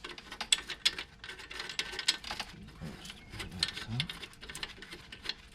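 Irregular light clicks, taps and rattles of hand work on metal parts as a truck's wheel hub bearing assembly is slid into place.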